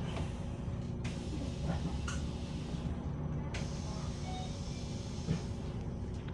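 Steady low drone of a moving bus heard from inside the cabin: engine hum and road noise.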